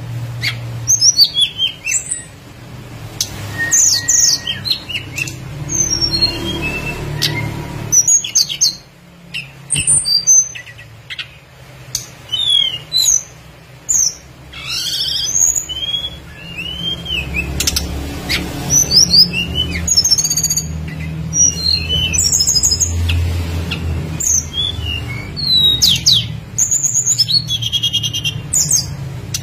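Tledekan gunung singing: a busy run of short, high chirps and quick falling and rising whistles, over a steady low hum.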